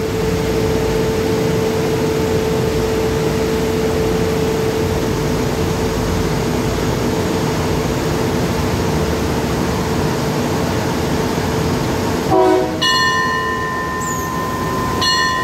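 Diesel railcar train standing at the platform with its engines running, a steady hum with one clear held tone. Near the end the tone changes and a steady higher two-note tone comes in, broken once briefly.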